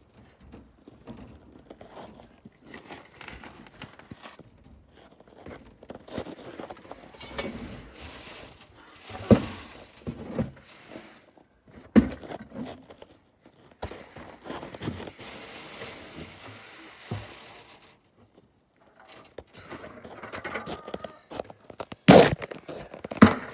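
Someone moving about and handling things: scattered rustling and crinkling with footsteps, and a few sharp knocks, two of them close together near the end.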